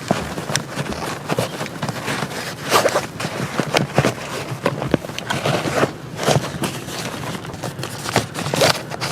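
Irregular rustling and scraping in quick, uneven strokes, like camping gear or fabric being handled up close.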